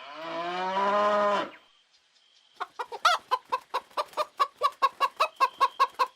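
A cow moos once, a long call rising in pitch. After a short pause a hen clucks rapidly, about five clucks a second.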